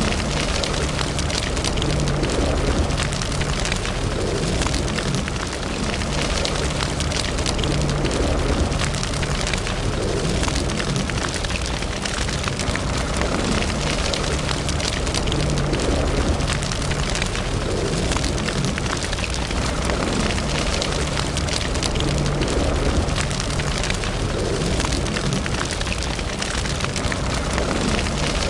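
Wood fire burning in a fireplace: dense, continuous crackling and popping over a steady hiss.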